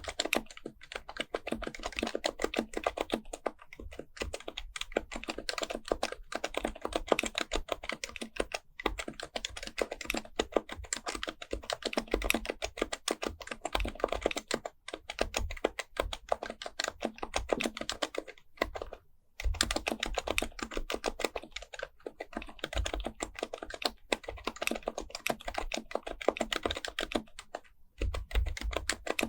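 Continuous fast typing on an HHKB Professional Type-S keyboard with Topre capacitive switches, fitted with bke-9400a. Dense run of muted keystrokes with a few brief pauses, the longest about two-thirds of the way through.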